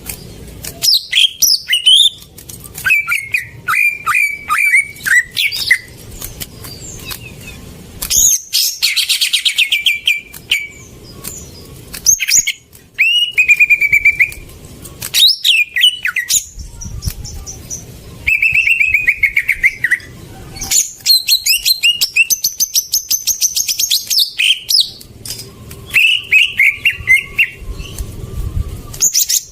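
Cucak ijo (green leafbird) singing a long, varied song of clear whistles, quick slurred notes and fast chattering trills, with short breaks between phrases.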